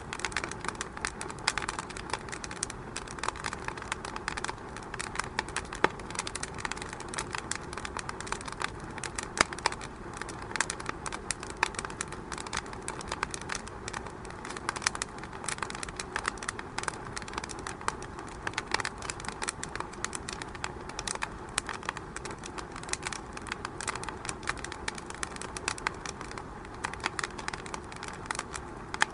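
Wood fire burning in a fireplace, crackling steadily with many small irregular pops and snaps over a soft rushing bed.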